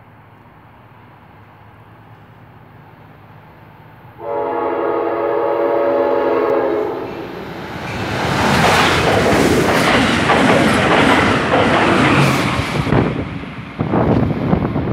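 Amtrak passenger train sounding one long horn blast, a chord of several tones, about four seconds in as it approaches. It then passes close at speed, a loud rush of wheels on rail with rapid clacking over the joints, easing off as it goes away near the end.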